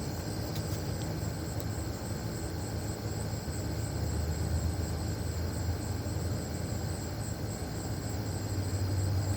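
A steady low rumble with a chorus of night insects trilling high and steadily over it.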